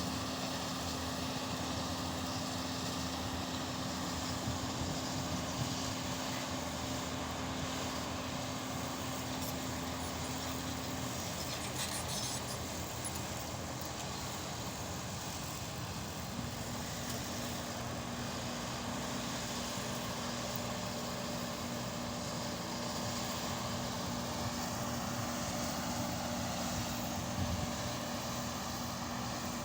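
Excavator's diesel engine running steadily; its steady hum drops away about eleven seconds in and comes back slightly lower some five seconds later.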